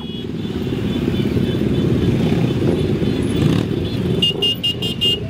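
Motorcycle engines running in a parade, a dense steady low rumble. About four seconds in comes a quick run of about five short high beeps.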